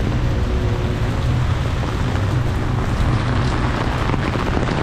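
Heavy rain pouring down mixed with the steady rumble of road traffic.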